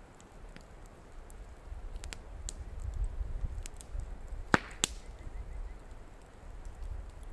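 Wood campfire crackling with scattered snaps and two sharp pops about four and a half seconds in, over a low rumble.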